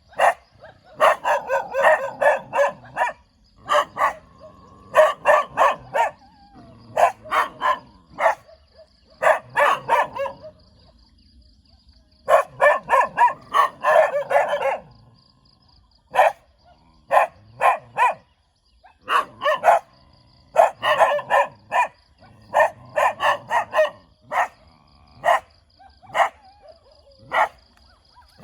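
A dog barking in repeated bouts of several quick barks, with short pauses between bouts.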